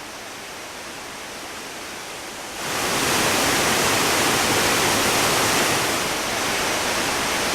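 Waterfall pouring, a steady rush of water that turns suddenly louder about two and a half seconds in.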